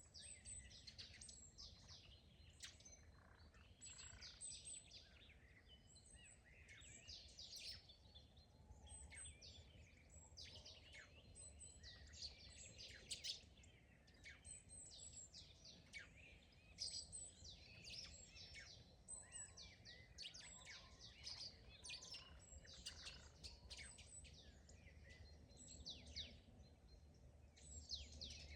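Faint chorus of small songbirds, many short overlapping chirps and trills all through, over a steady low rumble.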